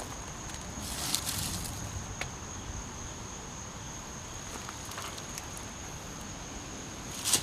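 Insects, such as crickets, giving a steady high-pitched trill, with brief scuffing noises about a second in and near the end.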